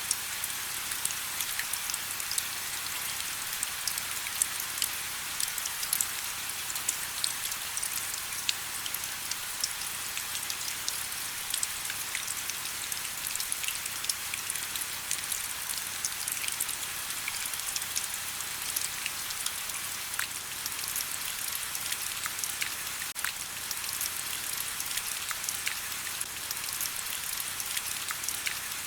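Steady rain: an even hiss thick with many small, sharp drop ticks, with little deep rumble and no thunder.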